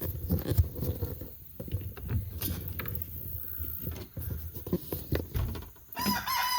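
Irregular knocks and rustling of movement in a chicken coop. Near the end a chicken starts a long, steady call.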